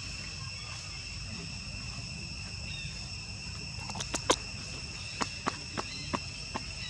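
Insects droning steadily in several high, unbroken tones. From about four seconds in, a string of sharp clicks or taps comes every fraction of a second.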